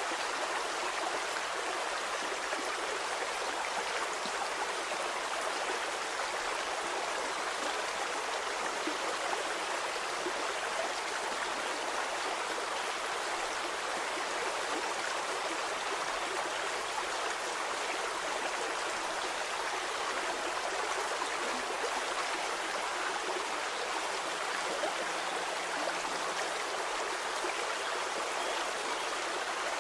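Small stream flowing steadily, an even rush of water with fine trickling and gurgling.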